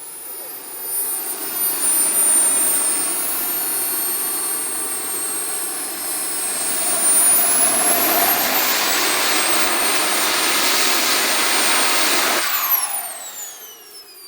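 Twin AMT Olympus jet turbines on a jet pack, throttled up with a loud rushing roar and a high whine that climbs a second time about seven seconds in. About twelve seconds in they are throttled back: the roar drops off sharply and the whine falls away as the turbines spool down.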